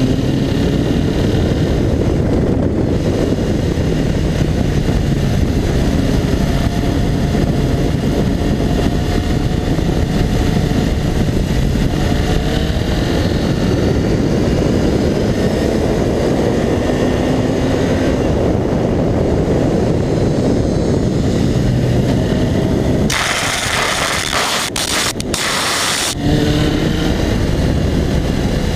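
Honda CBR Fireblade inline-four with an Akrapovic exhaust, heard on board at speed, its pitch rising and falling as the rider works the throttle, under heavy wind noise. About 23 seconds in, a harsh hiss cuts in for about three seconds.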